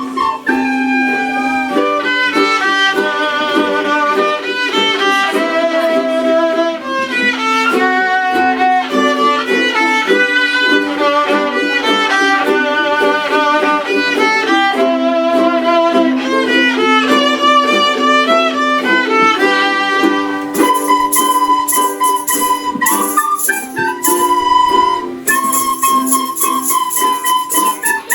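Live instrumental music: a melody line over a held low note, with rhythmic high jingling percussion joining in about 20 seconds in.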